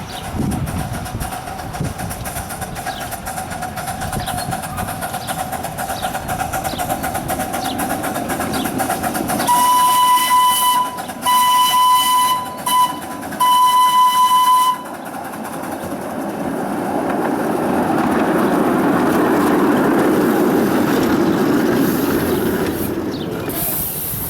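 Steam locomotive No. 89's whistle sounding three blasts of about a second and a half each. After the whistle, the rumble of the approaching train swells for several seconds and then eases.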